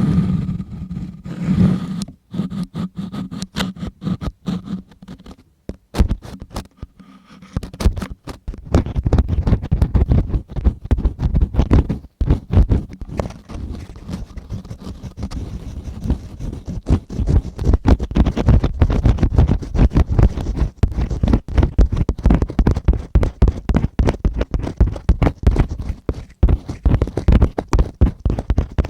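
Ear-cleaning scraping and scratching right on a microphone, close and loud: a few sparse strokes at first, then from about a third of the way in a dense, fast, continuous run of scratchy strokes.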